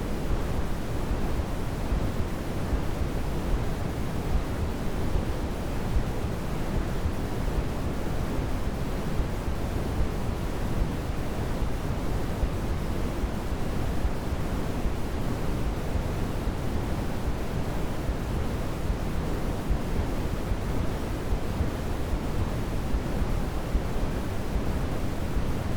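Steady, unchanging electronic noise with most of its weight in the low range, a soft even rush like pink noise rather than a bright hiss.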